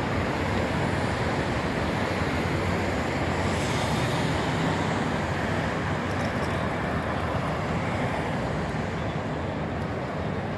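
Steady, continuous noise of busy city road traffic, with no distinct single event standing out.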